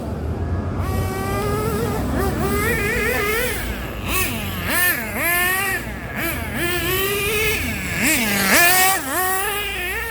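Small nitro (glow-fuel) race engine of an RC car running hard, its high pitch rising and falling over and over as the throttle is worked, with quick drops and climbs about halfway through and again near the end.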